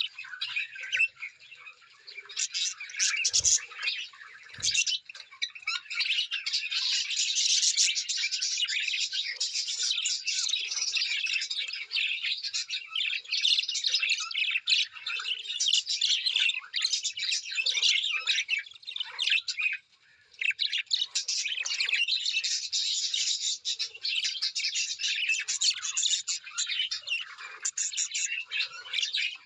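A flock of small birds chattering and chirping densely and without pause, with a short lull about two-thirds of the way through. Two low thumps come a few seconds in.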